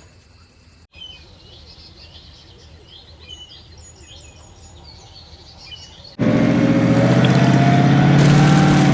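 Faint birds chirping for several seconds, then a truck engine starts running abruptly about six seconds in, loud and steady.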